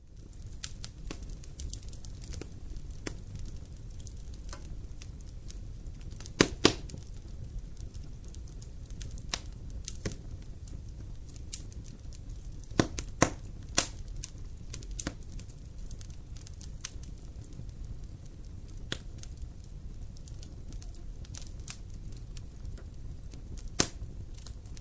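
Wood fire in a fireplace crackling: a steady low rumble with scattered sharp pops, the loudest a pair about six and a half seconds in, a few more around thirteen seconds, and one near the end.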